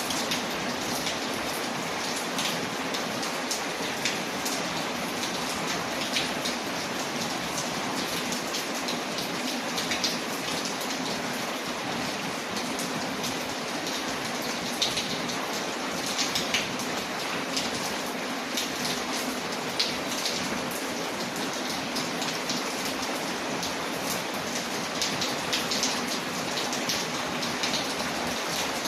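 Steady rain falling, with scattered sharp ticks and pops over it.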